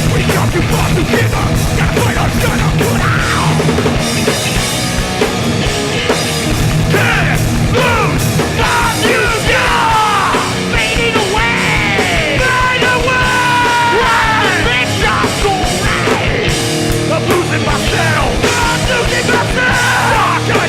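Hardcore punk band playing live: distorted guitars, bass and drums at full tilt, with yelled vocals coming in a few seconds in and running through most of the rest.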